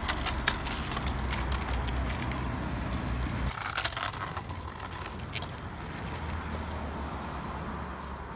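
Kick scooters rolling over rough asphalt close by: a steady rumble of small wheels with scattered clicks and rattles. The rumble drops away suddenly about three and a half seconds in, then picks up again.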